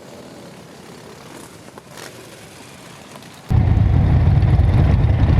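Faint outdoor traffic noise, then about three and a half seconds in a loud, steady low rumble of motorcycle engines starts abruptly.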